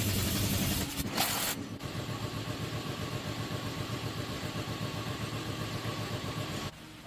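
Old truck engine running, louder at first and then settling into a steady, rough idle, with a brief burst of noise about a second in; the engine shuts off abruptly near the end.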